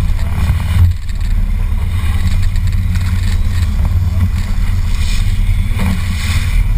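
Fishing boat's motor running steadily on the lake, a continuous low drone.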